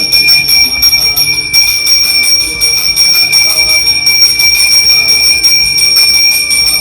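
Temple bell ringing without a break, a steady high ringing, with music playing faintly underneath.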